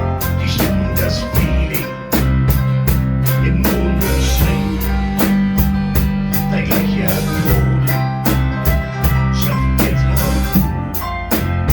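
Live blues band playing an instrumental passage: a drum kit keeps a steady, even beat under electric or acoustic guitar and held low bass notes.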